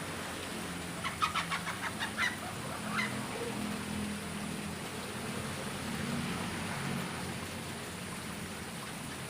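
A chicken clucking: a quick run of about eight short calls about a second in, then one more a moment later, over a steady hiss.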